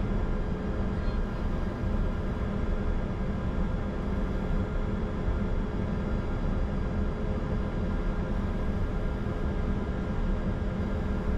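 Cockpit noise of a Bombardier Challenger 605 with its two GE CF34-3B turbofan engines running at ground idle: a steady low rumble with thin, constant whining tones over it.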